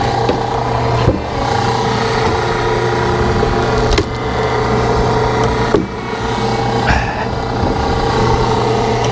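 Hydraulic log splitter running steadily under its engine, with sharp cracks about four and six seconds in as a log splits.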